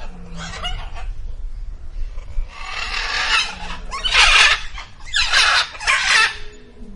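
A bird squawking in a series of about five harsh calls, the last three the loudest.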